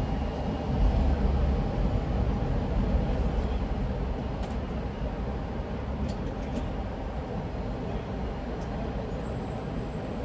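Steady road noise of a car driving on a highway: tyre and engine rumble, strongest at the low end, a little louder in the first couple of seconds.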